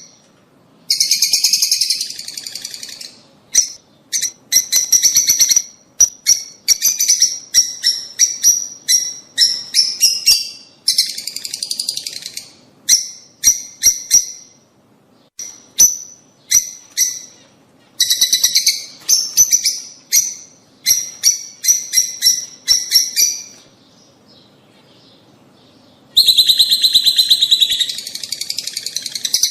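Lovebirds chattering in bursts of rapid, shrill chirps, with short gaps and a pause of about two seconds near the end before a dense burst resumes. This is a breeding-stimulation call recording for rosy-faced and Fischer's lovebirds.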